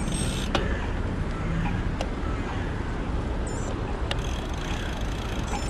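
Steady low rumble of wind on the microphone and road noise from riding a bicycle through city streets, with a few sharp clicks.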